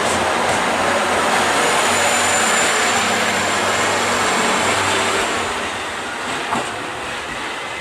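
A train running: a steady, loud noise with a faint high whine. It eases off about five seconds in, and there is a single click shortly after.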